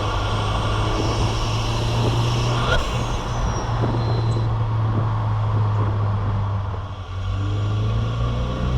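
2007 Saturn Sky Redline's turbocharged 2.0-litre four-cylinder engine running at fairly steady revs on the move, with a brief dip in level about seven seconds in.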